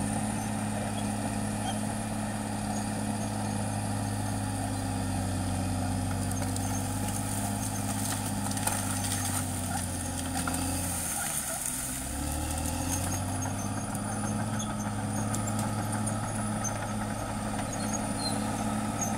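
Caterpillar D6R XL bulldozer's diesel engine running steadily under work, its pitch sagging briefly about eleven seconds in and then picking back up. A thin high squeal and scattered clanks run over the engine sound.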